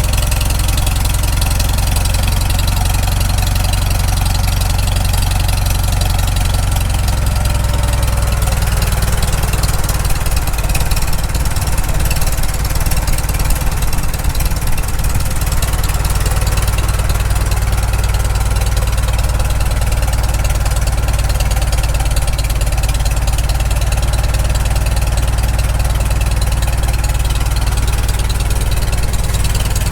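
Freshly rebuilt Farmall Super M four-cylinder engine idling steadily on its first run while its carburetor low idle is adjusted. The idle note changes about seven seconds in and wavers briefly a few seconds later.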